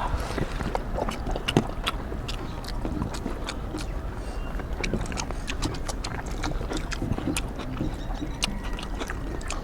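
People eating rice and curry by hand: irregular chewing and lip-smacking clicks throughout.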